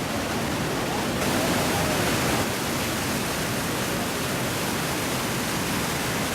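Steady roar of heavy falling water from Iguazu Falls, swelling slightly for about a second a little over a second in.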